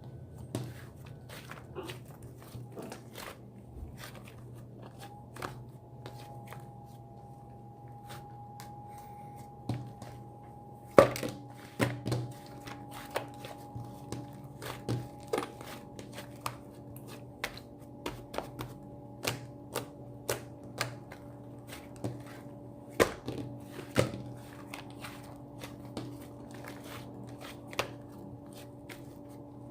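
Slime being squished and poked by hand, making irregular sharp clicks and pops, with a faint steady hum underneath.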